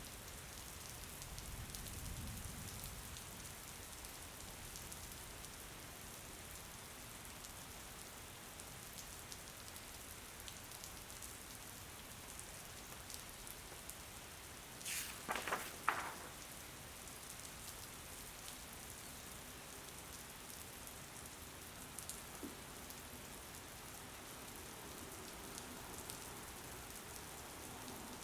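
Steady rain falling, an even hiss. A faint low rumble comes near the start, and about halfway there is a brief clatter of a few sharp knocks.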